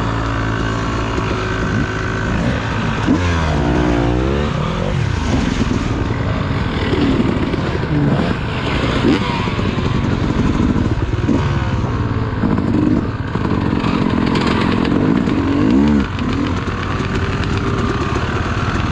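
Dirt bike engine running on a trail ride, its pitch rising and falling several times as the throttle opens and closes, over a steady rush of noise.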